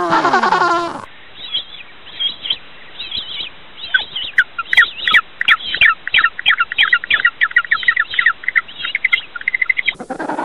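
Bird calls: many short, high chirps, sparse at first and then coming thick and fast from about four seconds in for several seconds. In the first second and again just before the end, a lower drawn-out call with several stacked tones is heard.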